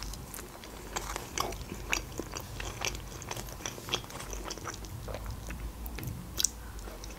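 Close-miked chewing of shawarma in bread, with scattered soft wet mouth clicks.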